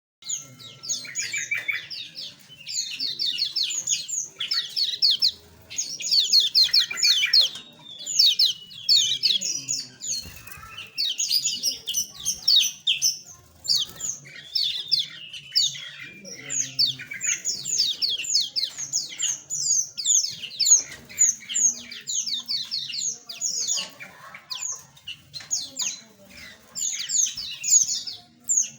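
A flock of small aviary birds chirping continuously, many short, quick notes from several birds overlapping.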